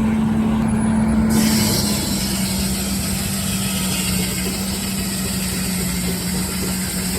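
Steam-tractor-powered sawmill running and sawing an oak log: a steady hum that drops slightly in pitch about two seconds in as the saw takes the load of the cut, with a hiss joining in about a second in.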